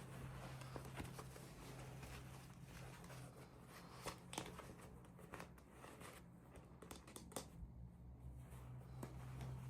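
Faint handling noises: scattered light clicks and rustles, as of hands working packaging and small plastic toys, over a low steady hum.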